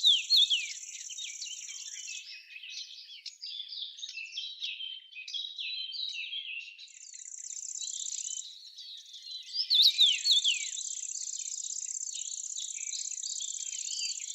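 Small birds chirping and twittering, with sharp, loud calls at the very start and again around ten seconds in. Under them runs a steady, high insect trill that drops out for a few seconds twice.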